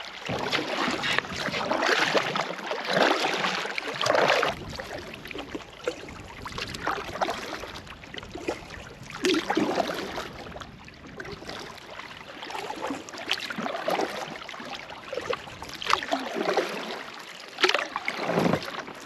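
Canoe paddle strokes in lake water: swishing and trickling surges that come every two to three seconds.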